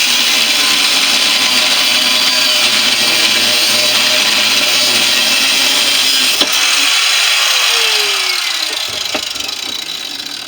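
A power tool cutting into a central air conditioner compressor, running hard with a loud, steady noise. It is released about eight seconds in and winds down with a falling whine.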